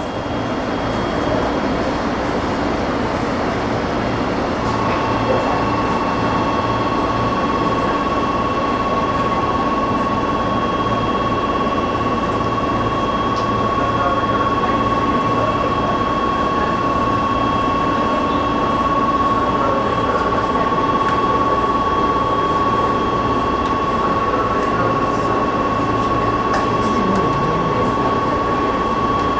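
Steady running hum of a standing electric train's onboard equipment, heard from inside the car. A steady high tone joins about five seconds in.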